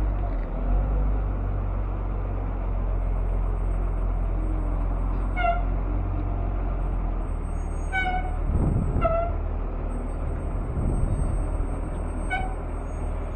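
Steady low rumble of a truck on the road, heard from the cab, with a cat meowing four short times over it.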